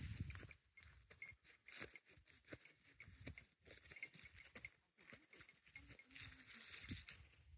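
Faint, irregular footsteps and rustling of a hiker on a mountain trail, with light clinking.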